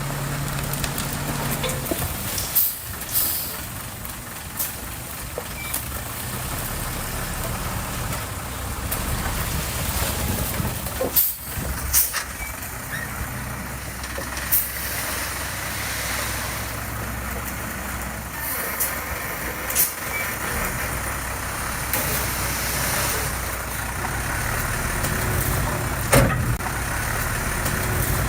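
Heavy diesel construction machinery running steadily, with scattered sharp clanks and knocks.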